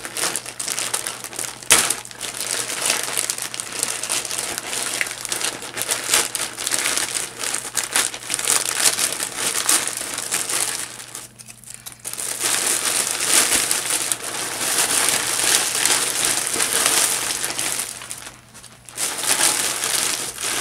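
Packaging crinkling and rustling as beanies are unboxed by hand, almost continuous, with short pauses about halfway through and again near the end.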